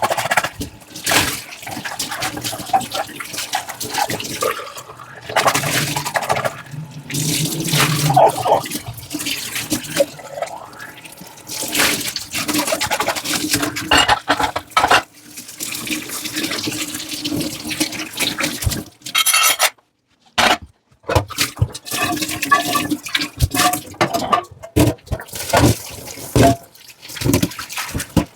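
Dishes being washed in a kitchen sink: water running from the tap while plates and utensils are scrubbed and handled, with frequent irregular clinks and knocks. The sound drops out briefly about two-thirds of the way through.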